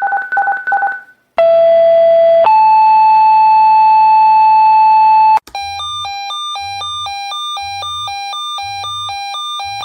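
Fire department radio dispatch tones. Three short beeps, then a two-tone page: a lower tone held about a second and a higher tone held about three seconds. Then a high-low alert tone alternates about twice a second.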